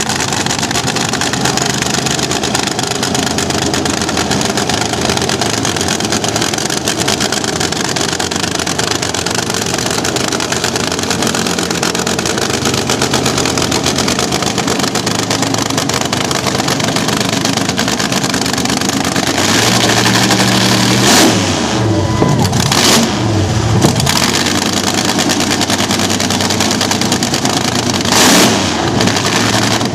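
Vintage nitro-burning slingshot dragster engines running very loud, with a run of hard revs rising and falling about two-thirds of the way through and one more short rev near the end.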